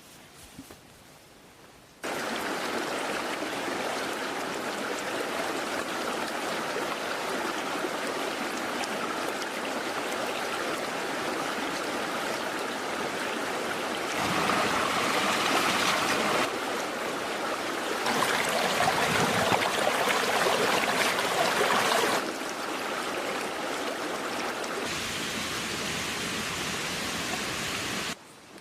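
Running water, like a stream or small waterfall, rushing steadily. It starts suddenly about two seconds in, changes level abruptly several times, and cuts off suddenly near the end.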